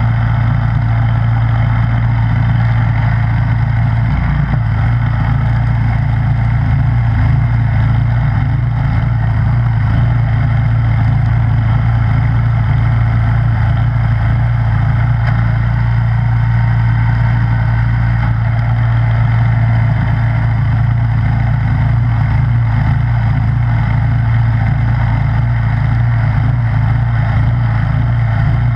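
Snowblower's gasoline engine running at a steady, unchanging speed.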